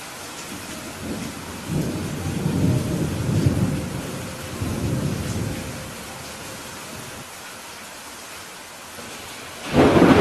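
Steady rain hissing, with thunder rumbling low through the first half and a sharper, louder thunderclap near the end.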